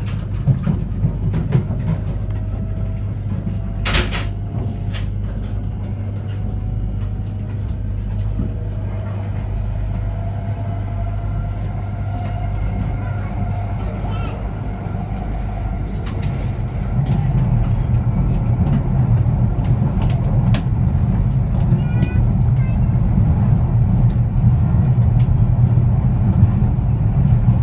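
Interior running sound of a JR East E3 series 2000 Shinkansen car under way: a low rumble of wheels on rail with a faint, slowly rising whine from the Hitachi IGBT VVVF inverter as the train picks up speed. There is a sharp click about four seconds in, and the rumble grows louder past the middle.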